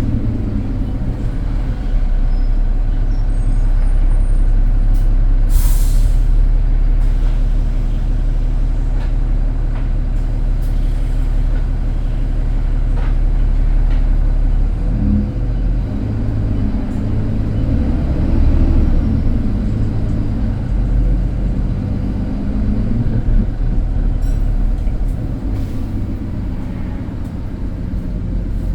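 Inside an ADL Enviro300 single-deck bus under way: steady engine drone with a whining, hoover-like note and scattered rattles. There is a short burst of air hiss about six seconds in, and from about 15 seconds in the engine note rises and falls as the bus pulls and eases off.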